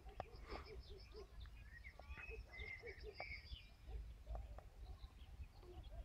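Faint birdsong: a run of chirps and trills in the first three and a half seconds, then scattered calls, over a low wind rumble on the microphone.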